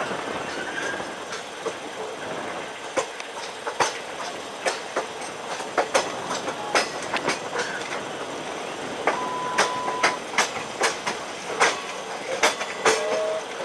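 Passenger train coaches rolling past on a curve: steady running noise of wheels on rail, with sharp clicks about once a second as the wheels cross rail joints and points, coming thicker in the second half.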